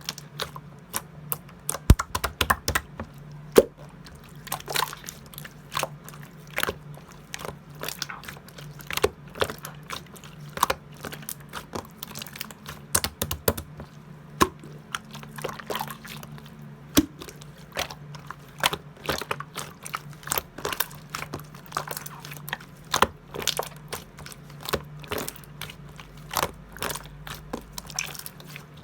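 Slime being squeezed, stretched and pressed by hand, giving many irregular sharp clicks and wet pops as trapped air bubbles burst, over a faint steady low hum.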